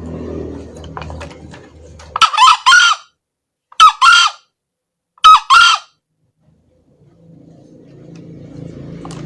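Male green junglefowl crowing three times, about a second and a half apart, each crow a short two-part call.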